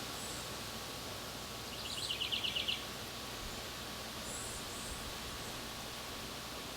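Small songbird giving one rapid trill of about a dozen quick notes, about two seconds in, with a few faint high chirps before and after, over a steady hiss.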